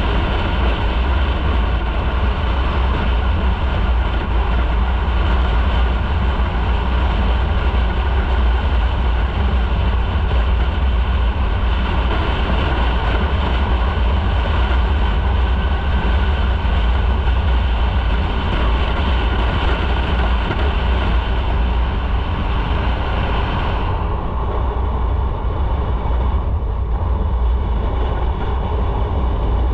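Motorcycle riding at speed: steady wind rumble on the microphone over the engine and tyre noise. The higher hiss drops away about three-quarters of the way through.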